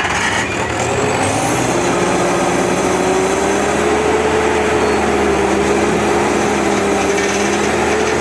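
Heavy diesel engine running steadily under load. Its pitch rises a little about a second in, then holds steady.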